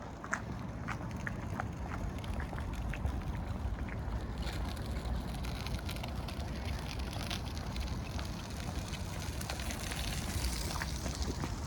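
Footsteps, a light sharp step about every two-thirds of a second, over a steady low rumble; a hiss swells from about a third of the way in and fades near the end.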